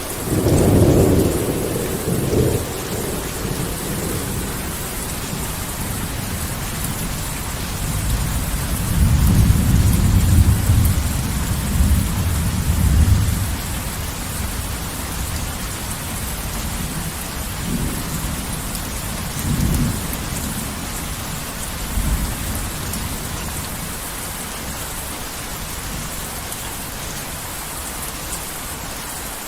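Heavy rain falling steadily, with rolls of thunder: a loud crack and rumble right at the start, a longer rumble from about eight to thirteen seconds in, and a few fainter rumbles after that.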